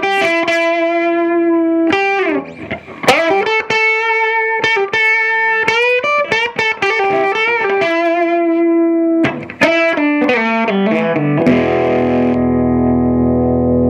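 Fender Stratocaster HSS played on its bridge humbucker, with the guitar's volume cranked, through the normal channel of an Earthquake Engineering Atlas15, a 15-watt cathode-biased EL84 tube amp, giving a thick overdriven crunch with a lot of bottom. Sustained lead notes with bends and vibrato, a quick descending run about ten seconds in, then a chord held ringing near the end.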